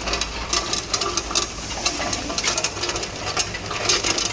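Small 1-ton tube ice machine running on single-phase power: a steady low hum with irregular sharp clicking and clatter throughout.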